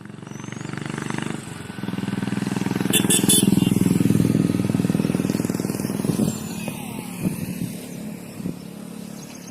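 A heavy bus or truck diesel engine approaching and driving past, growing loud about three seconds in and fading after about six seconds.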